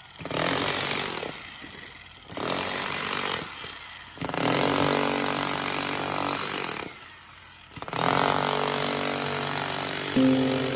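A handheld power tool running in four bursts, each lasting one to a few seconds with short pauses between. Plucked-string music comes in near the end.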